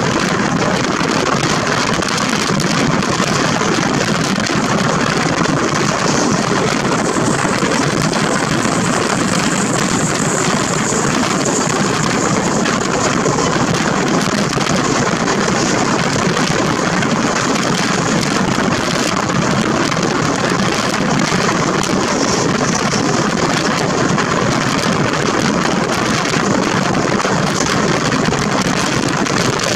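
Steady rush of wind and wheel-on-rail running noise from a passenger train moving at speed, heard from an open coach door or window with wind buffeting the microphone.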